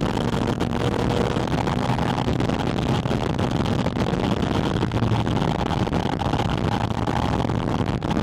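Porsche 718 Spyder RS's flat-six engine heard through a microphone on its air intake, running steadily while driving, half buried in heavy wind and road noise.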